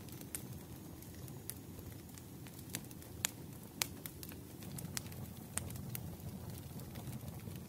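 Fireplace crackling: irregular sharp pops and snaps over a low steady rumble, with two louder snaps a little past the middle.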